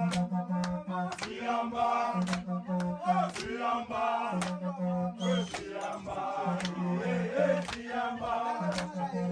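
A group singing a repetitive chanted song in Swahili, a short line repeated over a low held sung note, with sharp percussive beats several times a second.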